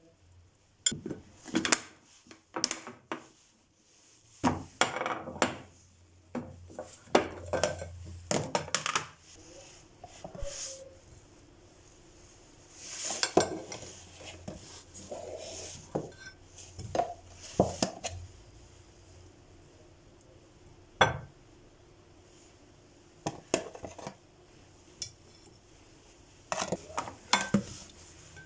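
Food storage containers and kitchenware being handled and set down: irregular clinks, knocks and clatters, busiest in the first half and again near the end.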